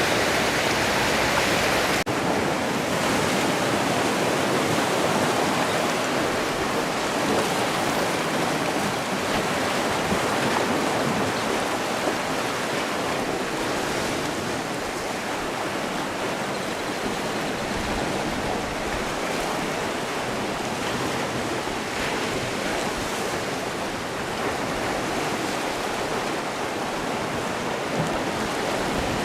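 Sea waves washing on a shore in a steady rush of surf. The sound changes abruptly about two seconds in.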